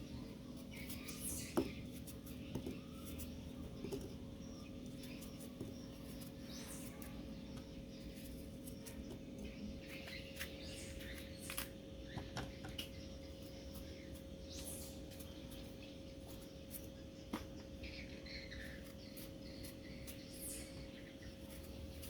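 Baby monkey giving short, faint high squeaks now and then, with small clicks and taps, over a steady electrical hum.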